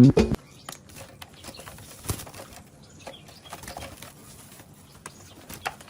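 Background music stops just after the start. Then faint, irregular clicks, taps and rustles, with a sharper tap about two seconds in, from caged birds hopping and fluttering.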